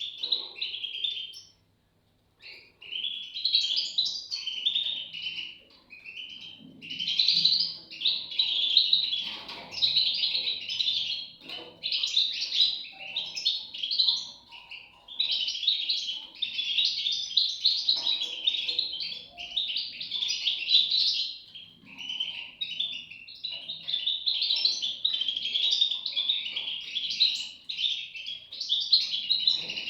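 European goldfinch chicks chirping in a dense, continuous high chatter, with a short pause about two seconds in.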